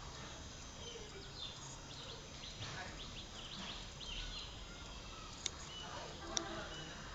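Birds chirping on and off, with two sharp clicks about a second apart near the end.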